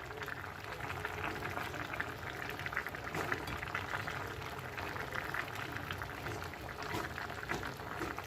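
Meat and potato tajine simmering on the heat, its sauce bubbling and crackling steadily.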